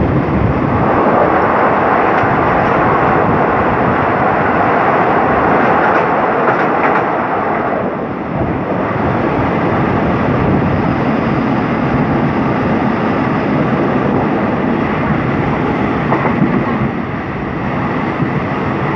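Moving passenger train heard from an open window of its carriage: steady running noise of the wheels on the rails, a little louder for the first eight seconds or so.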